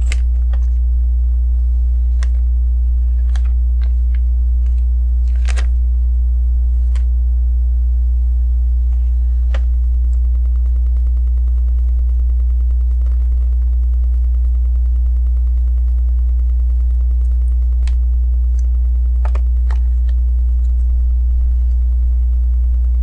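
Steady electrical mains hum, a loud low buzz with overtones, with a scattered handful of faint ticks and taps from small parts being handled.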